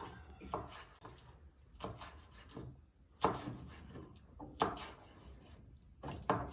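Knife chopping vegetables on a cutting board: irregular knocks of the blade against the board, a few per second with short pauses between.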